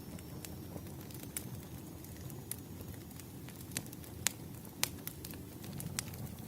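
Wood fire crackling: irregular sharp pops and snaps over a steady low rumble of burning logs, the loudest pops a little past four seconds in.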